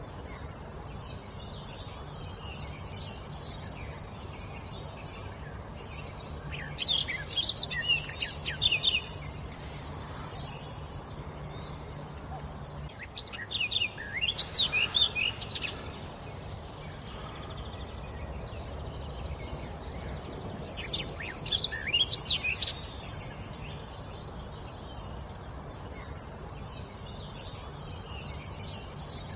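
A songbird singing three short bursts of quick, rapidly varied notes, spaced several seconds apart, over a steady background hiss.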